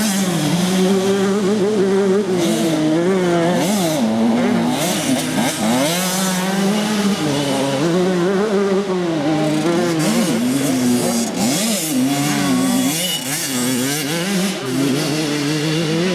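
Motocross motorcycle engines revving up and down over and over, their pitch rising and falling every second or so as the throttle is opened and shut.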